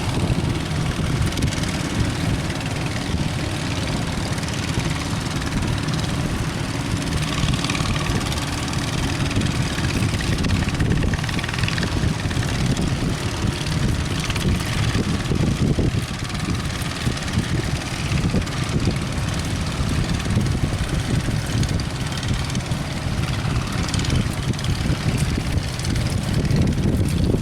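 Boat engine running steadily at sea, mixed with strong wind buffeting the microphone and the wash of rough water.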